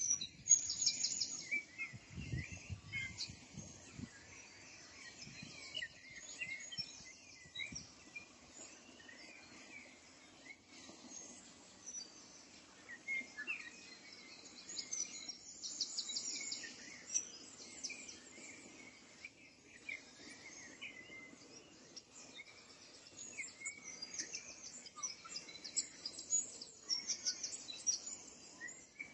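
Several small birds chirping, with short rapid high trills recurring every few seconds over a faint steady background hiss; a brief low rumble about two seconds in.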